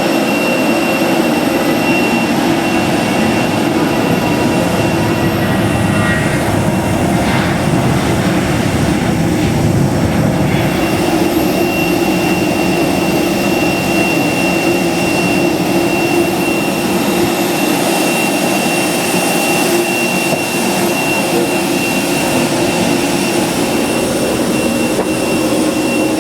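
Steady jet whine and rumble of an Airbus A320-214 on the ground during boarding: a continuous high whistle over a low hum, with faint brief sounds around a quarter of the way in.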